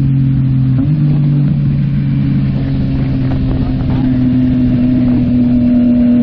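Yamaha MT-09 SP's three-cylinder engine through a Yoshimura AT2 full exhaust, running at steady revs while riding, with a brief shift in pitch about a second in.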